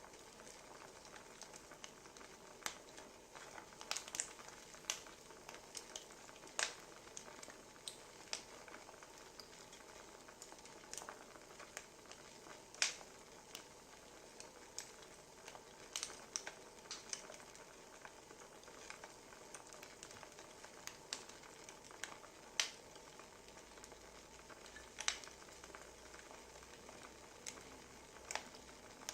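Wood fire crackling: a soft steady hiss with irregular sharp pops and snaps from the burning firewood.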